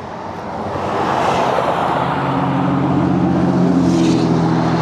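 Motor vehicle traffic close by: tyre and engine noise swelling over the first second, then holding steady with an engine hum underneath from about two seconds in.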